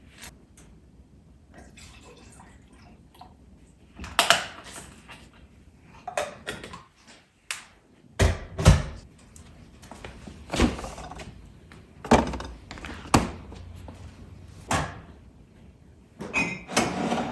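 Household handling sounds: a run of irregular knocks and thuds, about one every second or two, with rustling between them, like doors, cupboards and objects being moved and set down.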